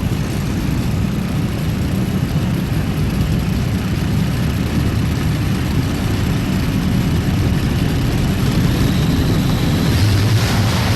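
Twin Allison V12 aircraft engines of a modified pulling tractor running hard and loud, growing louder about ten seconds in.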